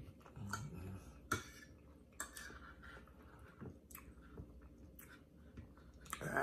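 A man chewing food close to the microphone, with scattered light clicks of a fork against a plate. A brief louder rush of noise comes at the very end.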